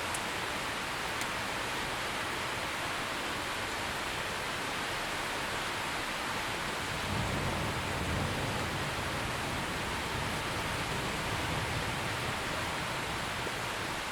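Steady rain falling as an even hiss. About halfway through, a low rumble of thunder comes in and rolls on under the rain.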